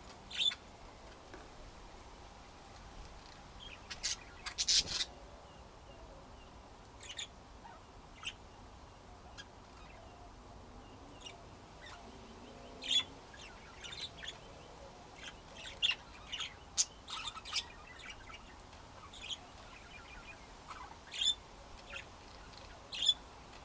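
Pet budgerigars chirping in short, scattered calls, with a denser cluster of chirps about four seconds in.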